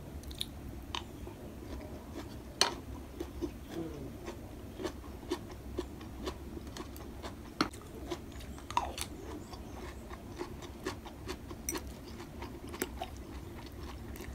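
Close-up crunchy chewing of raw cabbage salad, with scattered sharp clinks of a metal fork and wooden spoon against a glass bowl.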